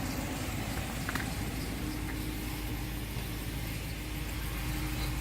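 The Ram 2500 Power Wagon's 6.4-litre Hemi V8 idling steadily, with a faint click about a second in.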